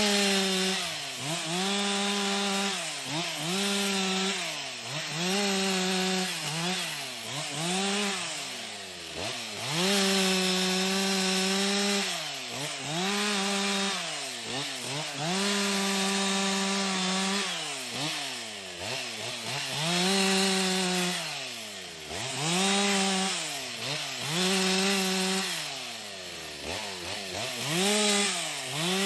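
Chainsaw cutting a tree branch, its engine revved over and over: it climbs to a steady high-pitched full-throttle note, holds there for a second or two, then drops back toward idle.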